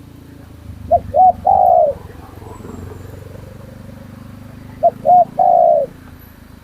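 Spotted dove cooing: two phrases about four seconds apart, each two short coos followed by a longer, wavering coo.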